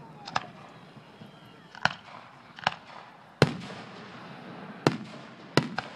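Aerial firework shells going off: about seven sharp, irregularly spaced bangs, the loudest about three and a half seconds in, with the last two close together near the end.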